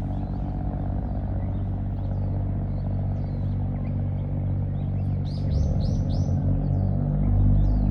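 An engine running steadily with a low hum that grows louder near the end, while small birds chirp over it; a quick run of four falling chirps comes about five and a half seconds in.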